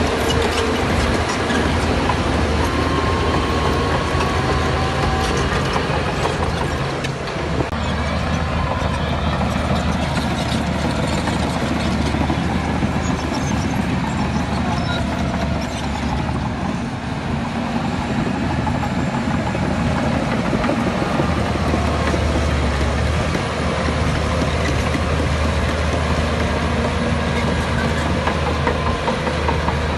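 Heavy diesel earthmoving machinery, a bulldozer working with dump trucks, running steadily under load with a continuous low engine drone.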